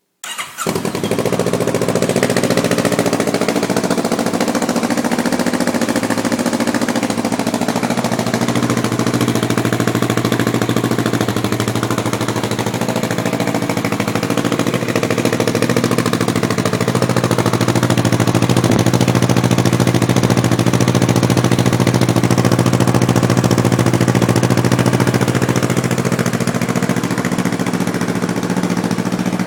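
Kawasaki Versys 649 cc parallel-twin engine starting up and then idling steadily through an aftermarket Jardine exhaust with its silencer insert fitted. The engine catches within the first second; its level swells slightly past the middle and eases back near the end.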